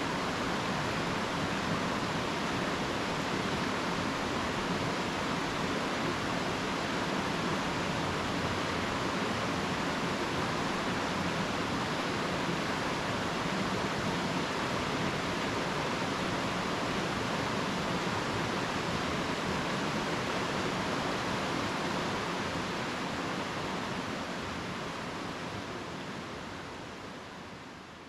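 Steady rushing of stream water, fading out near the end.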